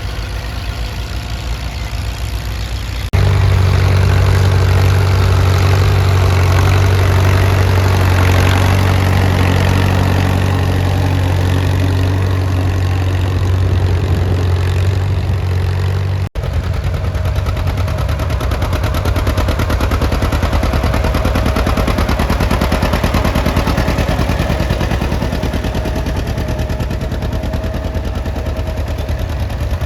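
Antique tractor engine running under load while plowing, with a rapid, even exhaust beat. The sound changes abruptly about three seconds in and again just past halfway, and is louder and deeper in between.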